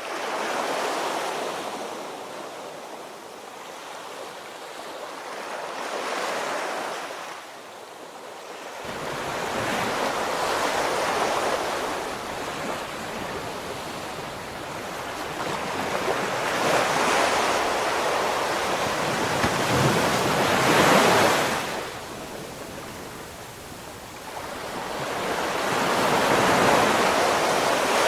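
Ocean waves washing onto the shore, each surge swelling and fading every few seconds, with wind rumbling on the microphone from about nine seconds in.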